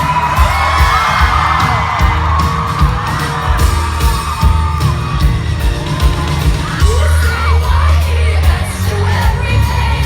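Live pop concert heard from within the audience: the band plays with a heavy, pulsing bass under singing, while the crowd whoops and cheers.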